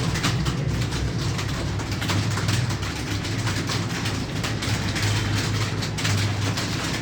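Several computer keyboards being typed on at once: a dense, continuous, irregular clatter of keystrokes over a steady low hum.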